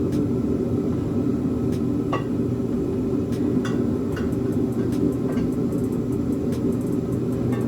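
A steady low rumble runs throughout, with a scattering of light metallic clicks and taps from header parts, gaskets and bolts being handled and fitted.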